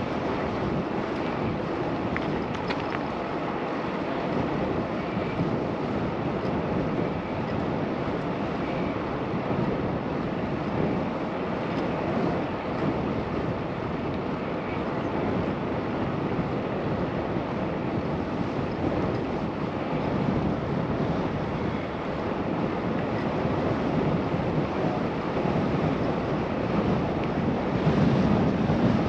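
Steady rushing wind on an action camera's microphone while riding a bicycle, growing louder near the end.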